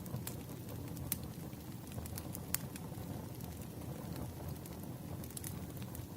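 Firewood burning: a steady low rumble of the fire with scattered sharp crackles and pops, the loudest pop about two and a half seconds in.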